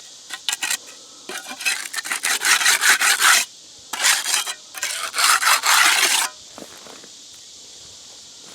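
Rough scraping of wet concrete across the top of a concrete block as a filled core is struck off level, in three bouts with a few small knocks before them.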